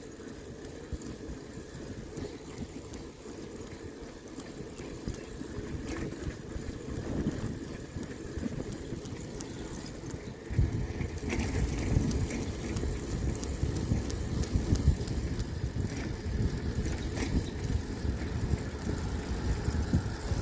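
Wind buffeting the microphone of a camera on a moving bicycle: a low rumble that grows louder about ten seconds in, with a few faint clicks.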